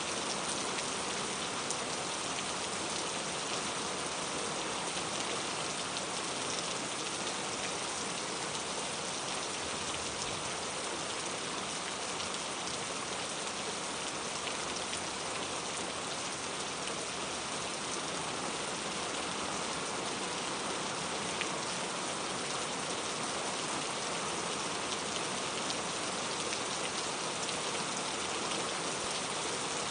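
Steady rain falling, a dense even hiss of many small drops with faint individual patters, unchanging throughout.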